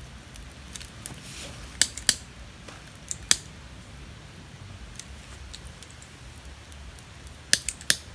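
Scattered sharp clicks or snaps over a steady low background: two about two seconds in, one just after three seconds, and a quick run of three near the end.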